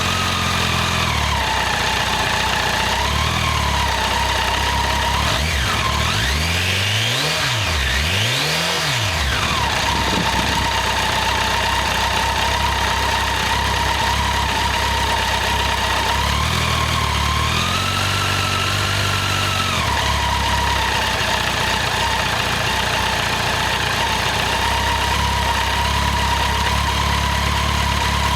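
Honda CBR1100XX Blackbird's inline-four engine idling, blipped up and down twice about a quarter of the way in, then held at higher revs for a few seconds past the middle before settling back to idle.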